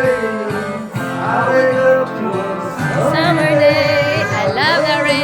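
A country-style song: a singing voice with guitar accompaniment.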